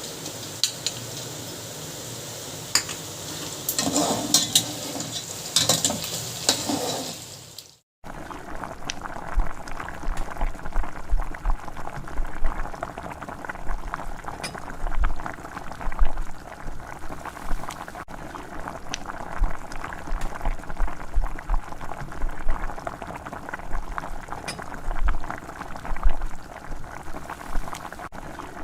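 Chicken stew boiling in a pot, bubbling with irregular low pops. Before that, a steady hiss with a few clinks and knocks, which cuts off suddenly about eight seconds in.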